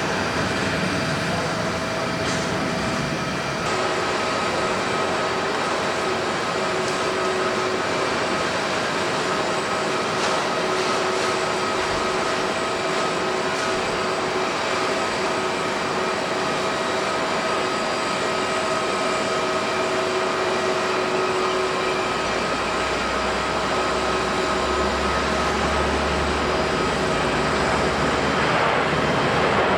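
Boeing 787-10 airliner's jet engines on departure: a broad steady rush with a steady whine on top, growing a little louder near the end.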